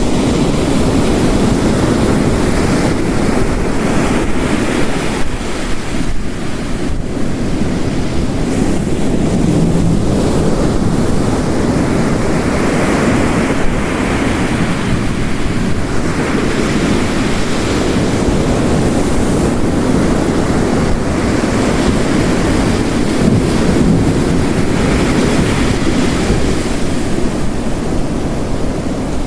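Heavy rain mixed with ocean waves crashing on the coast: a continuous roar of water whose surf swells and recedes every several seconds.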